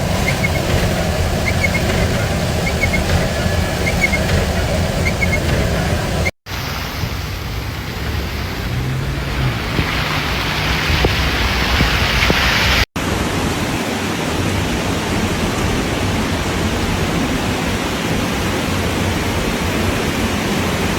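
Loud, steady storm noise of wind and water, without a clear tone, made up of three clips that each cut off abruptly, the first about six seconds in and the second about thirteen seconds in. The first clip is heavy in the low end; in the second the hiss grows brighter about ten seconds in.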